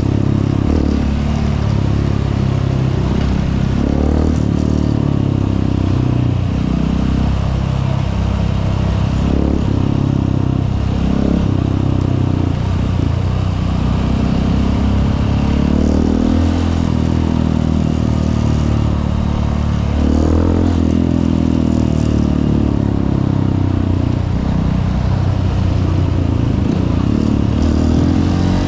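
Honda CRF150L's single-cylinder four-stroke engine running under way, its revs climbing and dropping again and again as it works through the gears.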